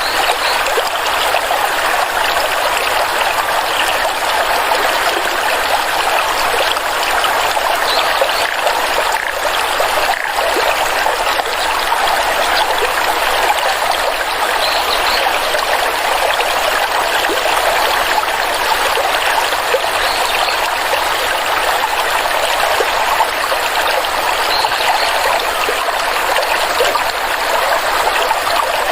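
A stream of water flowing steadily, a continuous rushing trickle.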